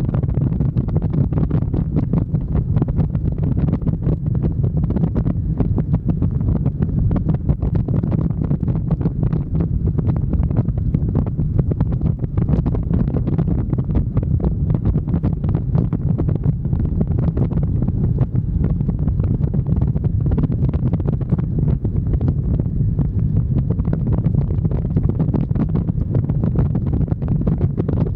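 Steady low rumble of wind buffeting the microphone on a moving motorcycle, with a constant flutter and no change in pace.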